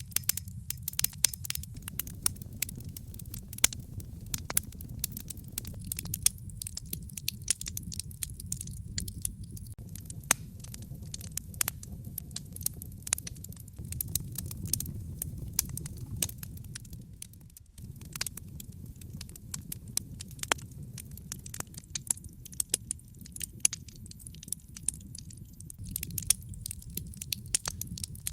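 Wood fire crackling and popping, with dense irregular sharp snaps over a steady low rumble of flames.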